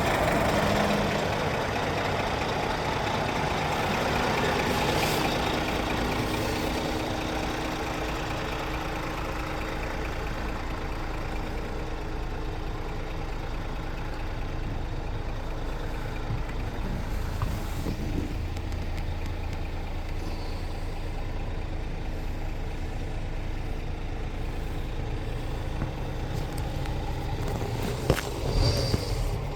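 Scania R480 truck's six-cylinder diesel engine running steadily at idle. There are a couple of sharp clicks near the end.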